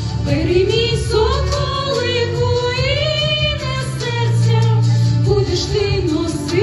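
Music: women's voices singing a Ukrainian song melody over an accompanying track with a steady bass line.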